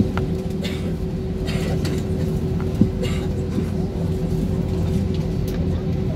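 Cabin noise inside an Airbus A320: a steady low rumble and hum with a constant tone, from the IAE V2500 engines at idle as the aircraft taxis, with a single sharp knock about three seconds in.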